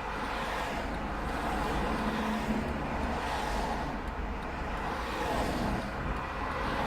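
Road traffic: a steady low rumble with vehicles swelling past every few seconds.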